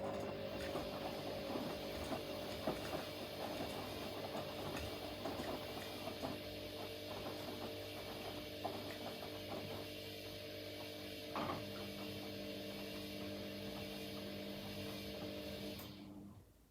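Washing machine running mid-programme: a steady motor whine with several held tones over a hum, and scattered light clicks and knocks from the drum. The sound cuts off abruptly near the end.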